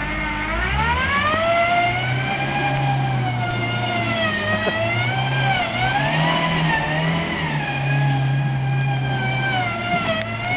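Small Metro hatchback's engine revved hard while the car does donuts in snow. The engine note climbs in the first two seconds, then keeps rising and falling as the throttle is worked and the car slides round.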